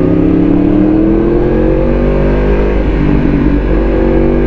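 Yamaha R1's crossplane inline-four running through an Akrapovic titanium full-system exhaust while riding. The engine note climbs slowly under acceleration, with a brief break about three seconds in, then holds steady.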